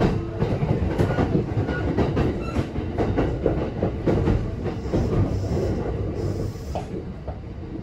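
Kintetsu 9020 series electric train running, heard from inside the car: a steady rolling rumble with the clack of the wheels over rail joints. It eases off near the end.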